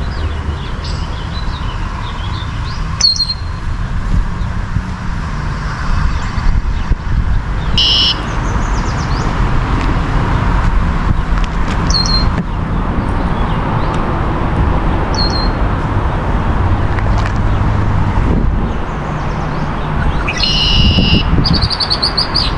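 A small songbird chirping in short, high calls every few seconds, the loudest about eight seconds in and near the end, over a steady low background rumble.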